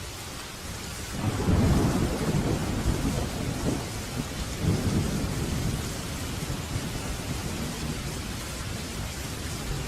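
Steady rain hiss, with a peal of thunder rumbling in about a second in, loudest for the next few seconds and then slowly dying away under the rain.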